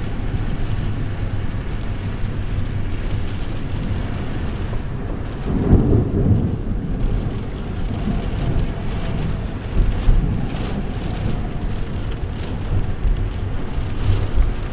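Thunderstorm: steady rain with a low rumble of thunder swelling about five and a half seconds in, and a shorter rumble near ten seconds.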